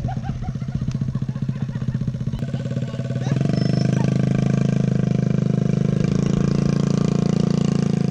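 Motorbike engine running, uneven at first, then steadier and louder from about three seconds in.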